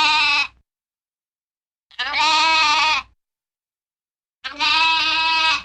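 Three bleats, each about a second long with a slightly wavering pitch, spaced evenly about two and a half seconds apart with dead silence between them, as in an edited sound-effect loop.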